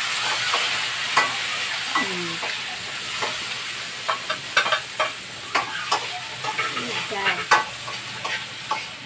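Sardines and tomatoes sizzling as they sauté in a wok, with a spatula scraping and knocking against the pan many times in the second half.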